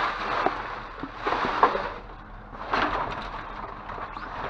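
Rustling and crinkling of trash bags and loose items being shifted around in a dumpster, in several short swells with a few sharp clicks and knocks.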